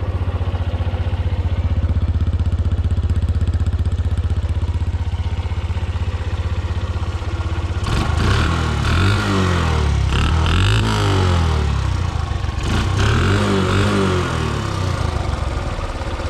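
A 1986 Suzuki RB50 GAG's 50cc four-stroke single, warmed up, idling steadily. About halfway through it is revved a few times, the note rising and falling, then it settles back to idle.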